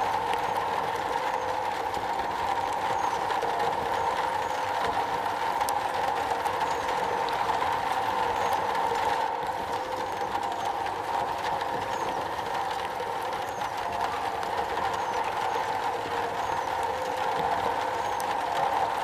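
Steady rain on a metal roof, a dense even patter with faint scattered ticks.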